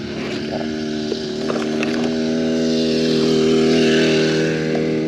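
Small gas engine of a motorized bicycle running at a steady pitch as it passes, growing louder to a peak a little past the middle and then fading slightly.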